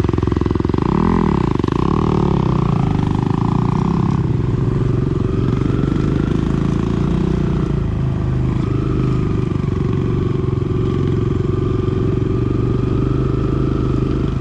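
Dirt bike engine running continuously, its revs rising and falling in the first few seconds and then holding steadier.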